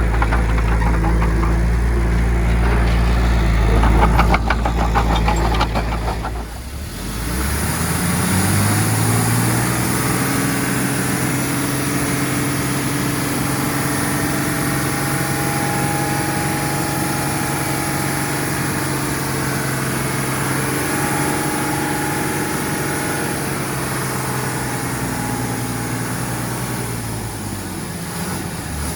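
Heavy-equipment diesel engine running steadily. About six and a half seconds in the sound changes abruptly, then the engine speeds up over a couple of seconds and holds a steady pitch, easing off a little near the end.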